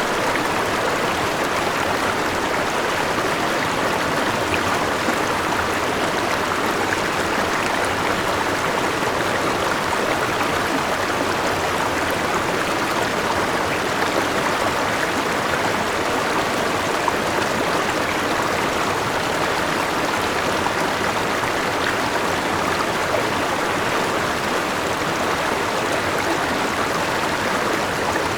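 Forest river running over a small waterfall: a steady, even rush of flowing water.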